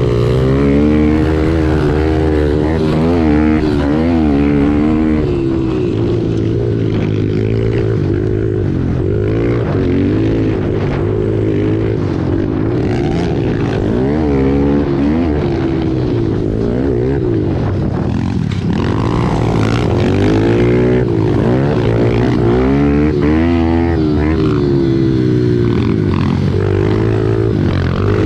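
Several pit bike engines racing together, their overlapping notes rising and falling constantly as the bikes rev up and shift down around the track.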